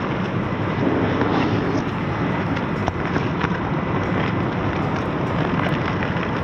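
Small electric RC crawler running, a faint steady whine from its motor and gears under loud wind rumble on the microphone, with a few light ticks.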